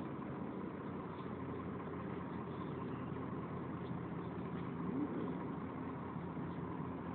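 Volvo B10BLE bus's engine and cooling fan running with a steady hum, heard from inside the bus. A short rising whine comes about five seconds in.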